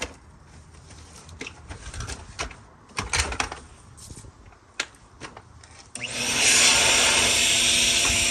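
Scattered knocks and clicks of handling, then about six seconds in a loud, steady electric motor-driven tool starts up with a hissing rush.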